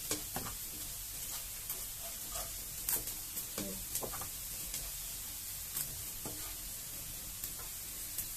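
Sliced onions sizzling in hot oil in a wok, with a steady hiss and a wooden spatula scraping and knocking against the pan every second or so as they are stirred.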